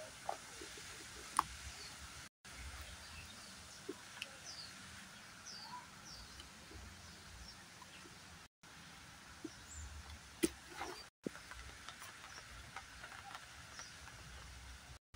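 Birds chirping in short, high, falling notes over a steady outdoor background noise, with a few sharp clicks, the loudest about a second and a half in and again around ten seconds in.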